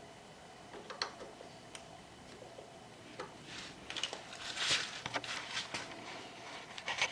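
Scattered light clicks and knocks, a few at first, then busier clicking and scraping in the second half.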